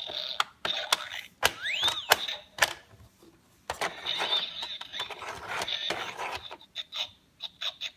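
A plastic Noo Noo toy playset being worked by hand: clicks, rattles and mechanism noise. A short squeak rises and falls about two seconds in, and there is a brief lull near the middle.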